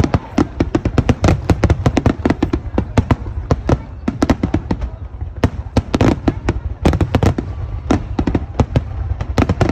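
Fireworks finale: aerial shells bursting in a rapid, irregular barrage of sharp bangs, several a second, over a continuous low rumble.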